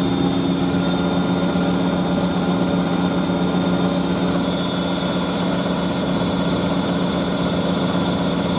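Hoover A3060 Electronic 1100 washing machine spinning, a loud steady motor hum with the cabinet vibrating hard as water is spun out of the laundry.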